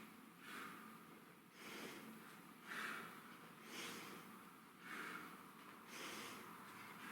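A man's faint, hard breathing from exertion during sit-ups: a short, sharp exhale about once a second.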